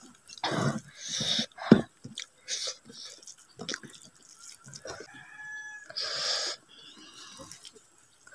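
Close-up eating sounds: chewing and mouth smacking while rice and vegetables are eaten by hand, with a sharp click about two seconds in. A chicken calls faintly in the background a little past the middle.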